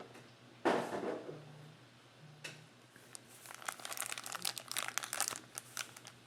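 Plastic wrapping on a box of football trading cards being torn open and crinkled: a short tearing burst just under a second in, then a run of crackling from about three seconds on.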